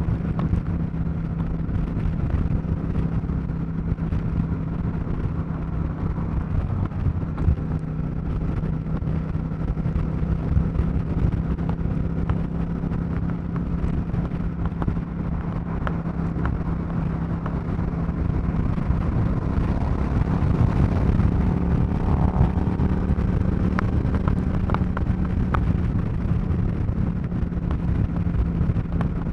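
Suzuki Marauder motorcycle cruising at a steady highway speed: an even engine and exhaust note under dense wind and road noise. The sound swells a little around two-thirds of the way through.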